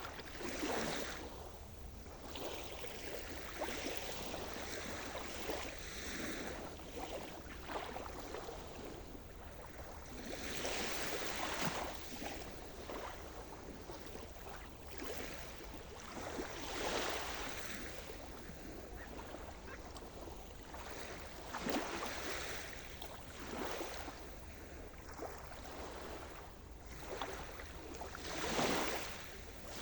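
Sea surf: waves breaking and washing in every five or six seconds, with a steady rush of water between them; the loudest wave breaks near the end.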